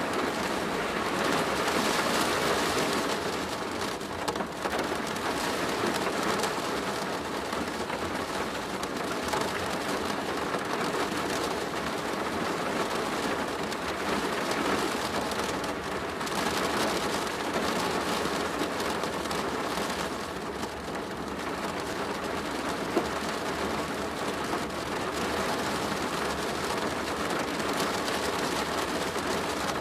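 Rain falling on a plastic roof: a steady, dense patter that swells and eases every few seconds.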